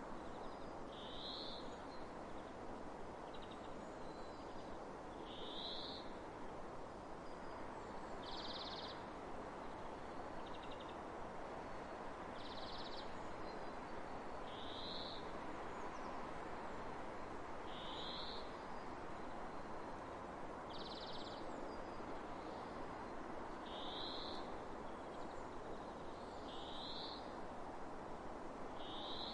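A steady soft rush of wind across open fields, with a bird repeating a short high call about every three seconds.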